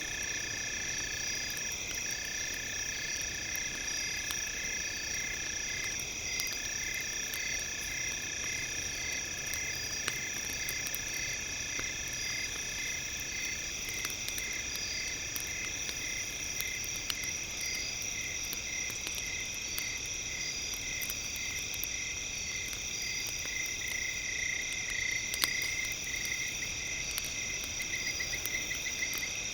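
Several steady high-pitched tones layered together, one of them pulsing evenly and then quickening to a rapid flutter near the end, over the scattered crackle of a campfire with one louder pop.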